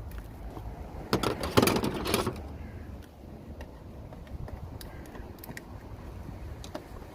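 A brief metallic clatter and rattle of tools being handled, about a second in, lasting roughly a second, over a low steady background rumble.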